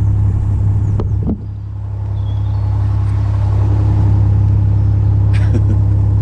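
Narrowboat diesel engine running steadily with a low hum; its level dips suddenly about a second and a half in, then builds back up over the next couple of seconds.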